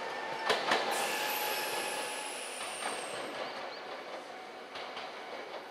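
Electric commuter train on the Nankai Koya Line moving away along the track. Its wheels clack twice over a rail joint about half a second in, and a thin high squeal slides down in pitch as the running noise fades.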